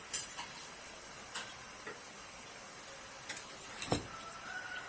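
A few sharp clicks and knocks of a microwave-safe bowl being handled and set into a microwave oven, the loudest knock near the end, over a steady faint hiss.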